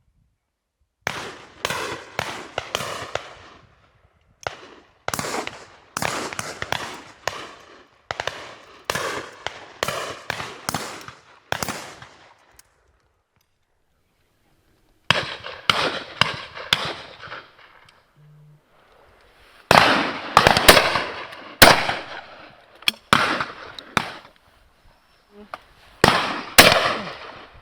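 Shotguns firing rapidly at driven game birds from a line of guns, shot after shot in dense clusters, each shot trailing off in an echo. The firing stops for a few seconds about halfway through, then starts again.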